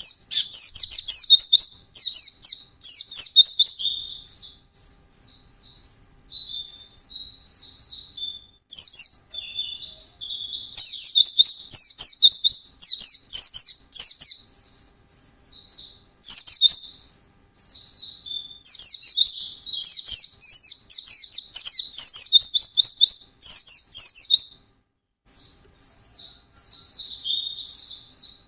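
White-eye (pleci) in full, vigorous song: fast, high-pitched twittering phrases lasting one to four seconds, broken by short pauses.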